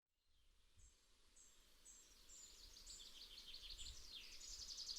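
Birds chirping: short, high chirps about twice a second, fading in and growing louder.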